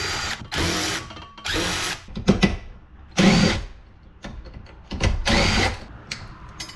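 Power drill running in about five short bursts, each spinning up in pitch and lasting under a second, with small metal clicks between them.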